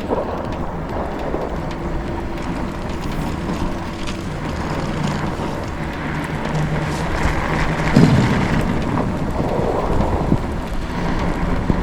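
Wind rumbling on the microphone while a Lectric XPeak fat-tire e-bike is ridden through snow on a plowed road, its hub motor under pedal assist adding a faint low hum that shifts in pitch. The noise grows louder for a few seconds past the middle.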